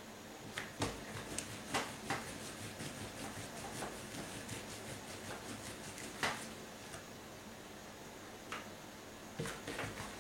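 Scattered soft clicks and light knocks of kitchen handling over a faint steady room hiss.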